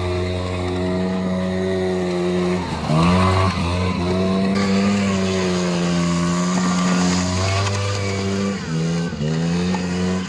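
KTM 85 SX two-stroke motocross bike engine held at high revs, steady. It drops briefly and revs back up twice, about three seconds in and again near nine seconds.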